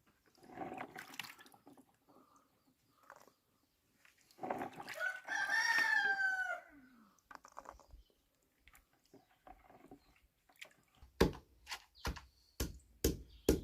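A rooster crowing once: a single call of about two seconds that falls in pitch at its end. Near the end comes a quick run of sharp knocks.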